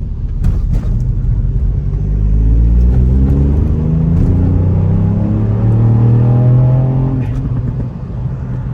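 Car engine accelerating hard, its revs climbing steadily, then easing off about seven seconds in.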